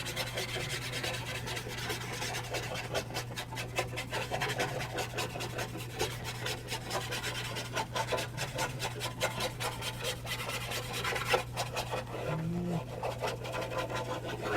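A round-head paintbrush rubbing charcoal dust into textured charcoal paper in small circles: a continuous scratchy rasping made of many quick, irregular strokes. It is laying a base tone of charcoal over the background.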